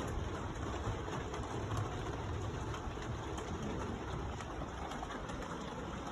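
Steady rain during a thunderstorm, an even hiss with a low rumble underneath.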